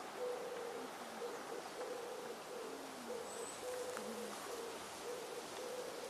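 Low hooting calls from a bird, repeated about twice a second at one steady pitch, a few held a little longer.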